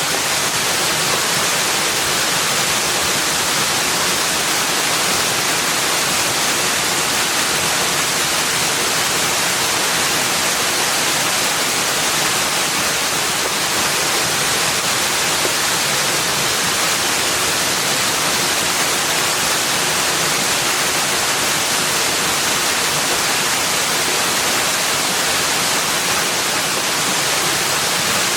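Steady rushing water: an even, unbroken hiss with no changes in level.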